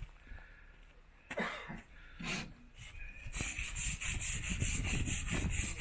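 A few faint knocks, then from a little past halfway a rapid rhythmic scraping, about five strokes a second, like rubbing or rasping on a hard surface.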